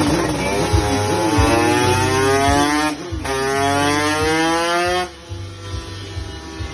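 Kawasaki Ninja 150 two-stroke single revving up on a dyno run, its pitch rising steadily through two pulls with a short dip between them. About five seconds in it drops off sharply to a lower, steady running note as the throttle is closed.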